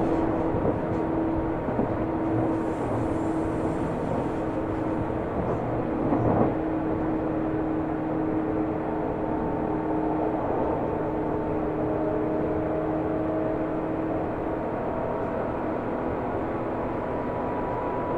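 Seibu New 2000 series commuter train running, heard inside the car: a steady rumble of wheels and traction motors with humming tones, a single rail-joint clack about six seconds in, and a few tones rising slightly from about twelve seconds on.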